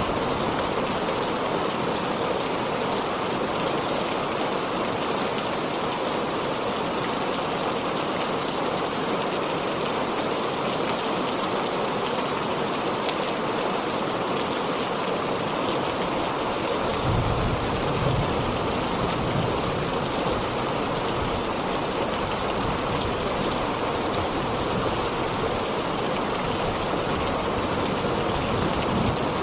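Heavy rain falling steadily. A low rumble of thunder comes in a little past halfway and keeps rolling under the rain.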